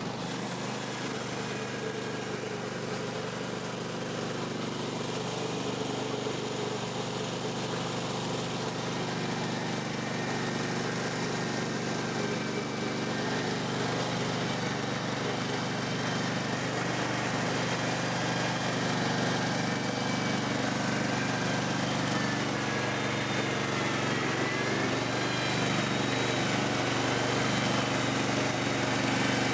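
Gas engine of a Woodland Mills HM126 portable bandsaw mill running steadily, growing slowly louder. A few faint high chirps come through over it near the end.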